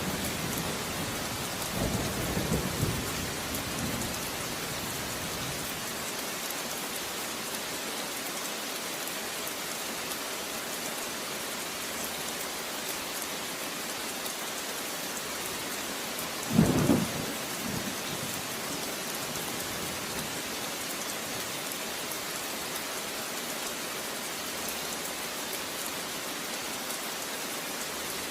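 Steady heavy rain falling, with low thunder rumbling in the first few seconds and one short, loud clap of thunder just past the middle.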